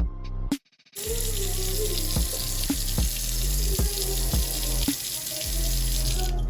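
Water running from a tap into a sink, a steady rushing hiss that starts about a second in and stops shortly before the end, over background hip-hop music with a steady beat.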